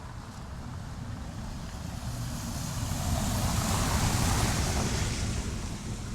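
A motor vehicle passing close by on the street, its noise rising to a peak about four seconds in and then fading.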